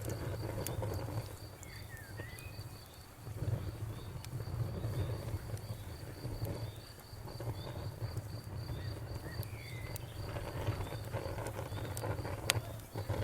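Bonfire crackling with sharp scattered pops and a low rushing that swells and fades, while a cricket chirps in a steady, even pulse several times a second.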